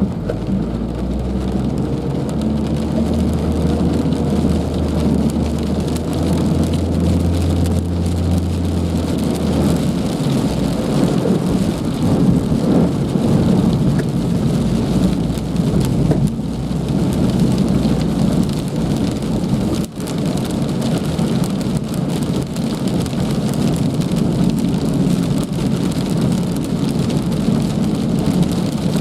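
Heavy rain falling steadily on surfaces, a loud even hiss with a deep, full low end. A low engine-like hum runs underneath for the first ten seconds or so, then stops.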